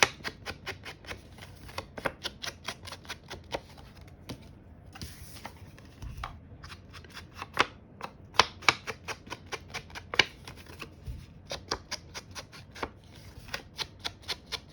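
Cardstock edges scraped with a paper-distressing tool, a fast irregular run of short scratchy strokes, several a second. A softer paper rustle comes about four to five seconds in as a card is handled.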